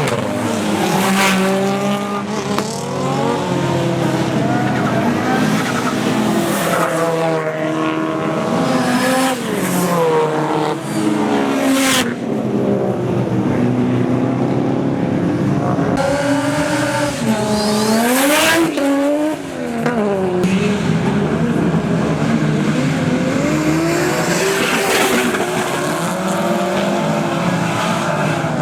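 Drift cars' engines revving hard, the revs climbing and dropping again and again as the cars slide through, with tyres squealing.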